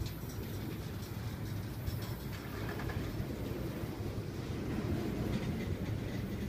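Intermodal freight train of truck trailers on flatcars rolling slowly over a grade crossing: a steady low rumble of the cars' wheels on the rails.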